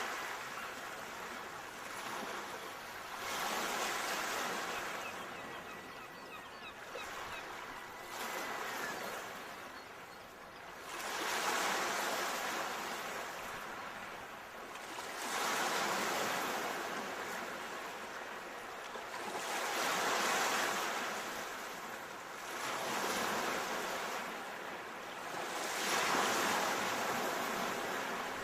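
Ocean waves breaking and washing ashore, in slow surges that swell and fade every four to five seconds.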